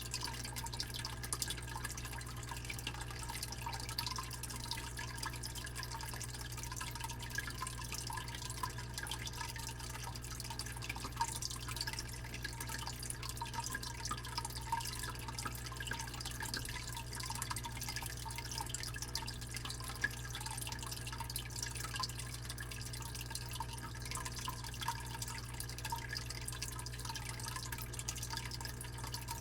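Fish tank pump humming steadily under a continuous trickle and bubbling of water, with small irregular drips and splashes throughout.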